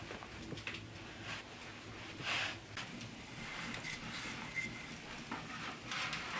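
Quiet cooking handling sounds: a soft swish about two seconds in, with scattered light taps and clicks.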